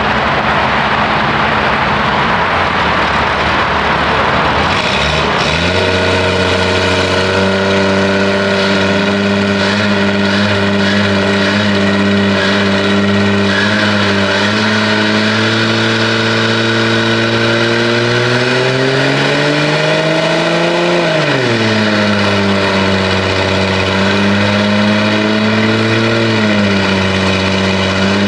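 A Dodge Dart's 225 slant-six engine running steadily, after a rushing noise in the first few seconds. About two-thirds of the way in it is revved up and falls back, with a smaller rise near the end as the burnout starts.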